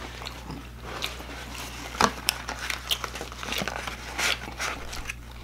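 Close-miked chewing of a fried chicken nugget, with scattered soft crackles and clicks of the cardboard nugget box being handled in the second half.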